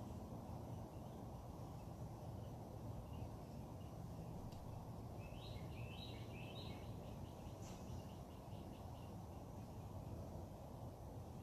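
Wild birds chirping over a steady low background rumble: a short run of chirps about halfway through, then a string of quick repeated notes.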